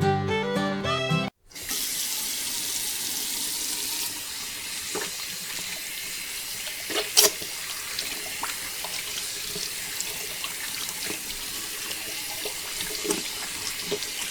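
Water gushing and splashing steadily, with scattered sharper splashes and clicks, the loudest about seven seconds in. Background music plays for about the first second, then cuts off.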